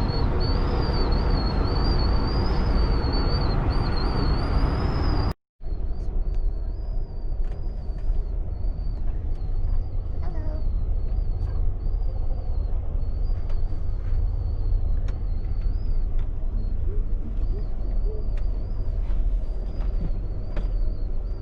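Amtrak passenger train running on the rails, heard from inside the car: a steady low rumble with a faint high, wavering whine over it. The sound drops out completely for a moment about five seconds in, then the rumble resumes, a little quieter.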